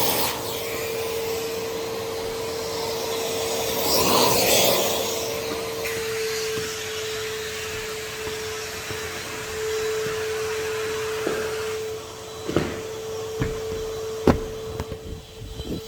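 Henry HVR200 620 W vacuum cleaner running with a steady whine over a hiss of suction, swelling louder for a moment about four seconds in. A few sharp knocks come near the end.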